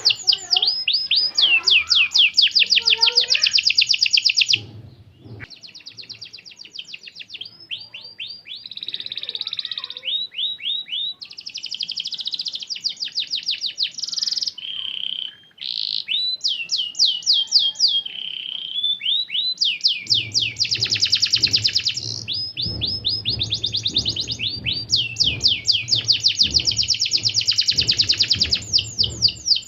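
Domestic canary singing a long, continuous song of rapid trills, each a fast run of repeated notes that changes to a new trill every second or two, with a softer stretch a few seconds in.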